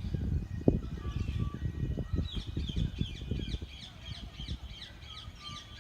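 Birds calling: a fast run of short, falling chirps starts about two seconds in, over a low, uneven rumble with a sharp knock near the start.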